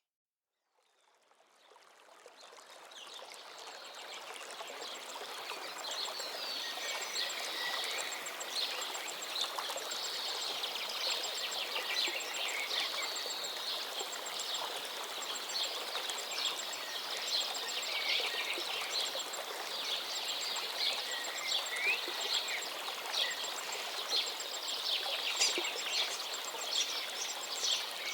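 Birds singing, many quick chirps and whistles over the steady rush of a flowing river. It starts from silence and fades up over the first several seconds.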